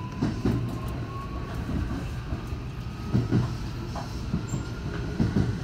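Electric commuter train running along the track, heard from the cab: a steady rumble with three pairs of wheel clacks over rail joints, and a faint whine rising slightly in pitch.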